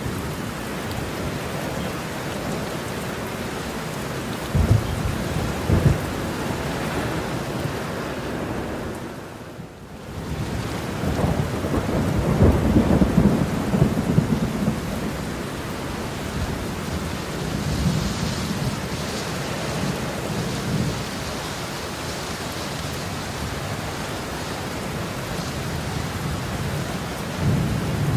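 Heavy rain falling steadily, with thunder: two sharp claps about five and six seconds in, a longer rolling rumble from about eleven to fifteen seconds, and another clap near the end. The rain briefly dips in level just before ten seconds.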